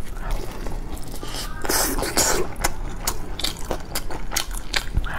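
Close-miked chewing of a pan-fried eggplant fritter stuffed with chives and egg: soft wet mouth sounds with many small clicks.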